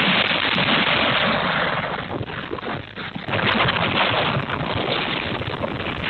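Storm-force wind of about 80 mph buffeting the microphone in gusts, a loud, steady rush that dips briefly twice in the middle, with faint clatter.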